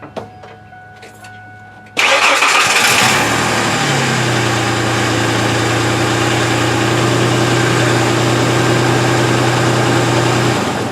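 A motor starts abruptly with a loud rush, settles into a steady hum after a second or two, runs for about seven seconds and then shuts off.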